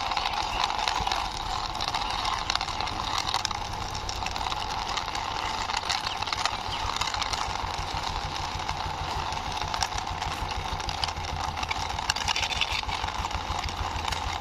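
Steady engine-like running noise with a low hum and a fine rapid rattle, going on without a break while a toy car is driven along by hand.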